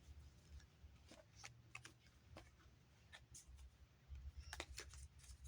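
Near silence with faint, scattered clicks and rustles of oracle cards being handled, a few clustered near the end.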